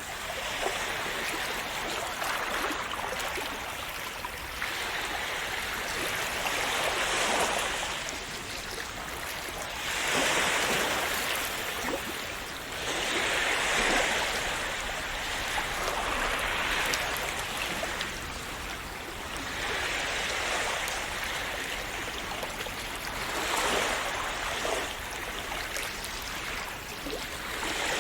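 Calm sea waves washing in and splashing, the sound swelling and easing back about every three to four seconds.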